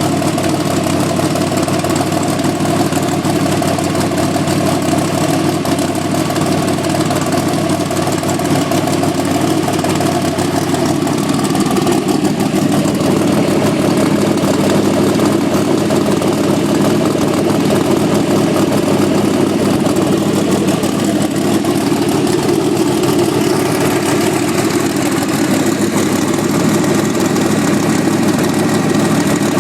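Twin-turbocharged 331 cubic-inch V8 idling steadily on its second fire-up after being built, with a slight change in its note about twelve seconds in.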